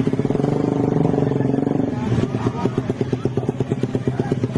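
An engine running with an even, rapid pulse, settling about two seconds in to a slower beat of roughly ten pulses a second.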